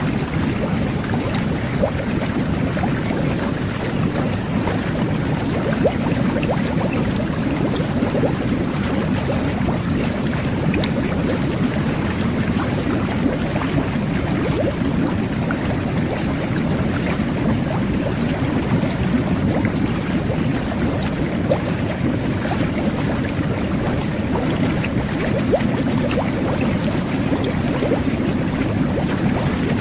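Jet bath (whirlpool tub) running: a steady churning of water and air bubbles from the jets, with a constant low rumble and fine bubbling crackle.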